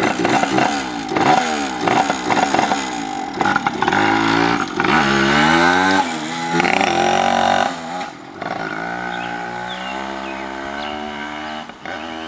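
Pit bike engine revving, its pitch rising and falling repeatedly for about eight seconds, then running at a steadier speed. The throttle is worked by a string tied on in place of a snapped throttle cable.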